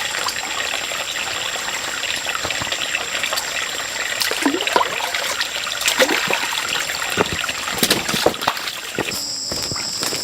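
Water trickling and splashing, with small clicks and knocks, over a steady high buzz of insects. Shortly before the end the water sound stops and the insects' steady high calls stand out.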